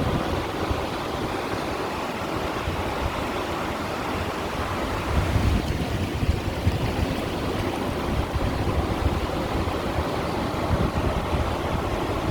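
Sea waves washing against stones at the shoreline, a continuous wash of water that swells a little about five seconds in.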